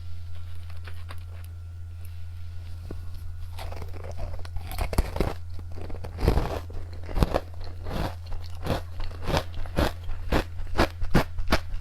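Close-miked crunching and chewing of candy. The bites start a few seconds in and come quicker toward the end, over a steady low hum.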